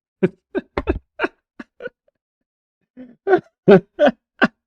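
A man laughing in two bouts of short breathy bursts, each bout a quick run of ha-ha sounds with a pause between the bouts.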